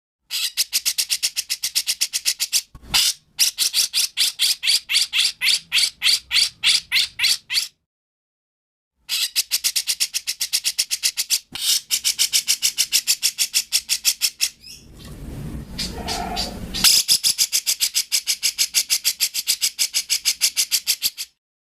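Songbird singing a fast run of sharp, high chirps, about five a second, in bursts broken by short pauses, with a rougher, noisier stretch about two thirds of the way through.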